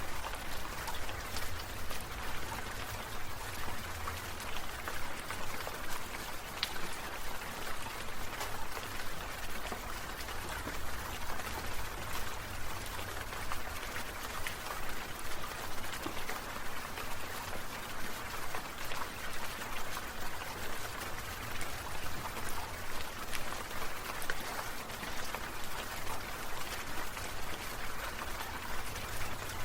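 Water spray from a sprinkler pattering down in a steady hiss of drops, rising and falling in a regular pulse.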